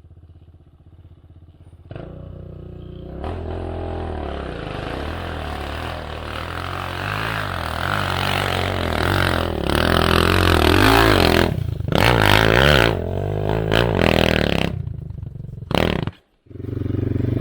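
Enduro dirt bike engine ticking over low, then from about two seconds in revving hard and unevenly under load, its pitch surging up and down, with short throttle-offs and a brief break near the end.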